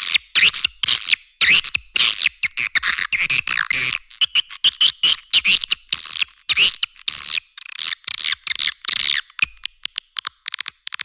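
Swiftlet calls used as a lure for swiftlet houses: a dense, continuous stream of rapid high-pitched chirps and twittering trills with no low end.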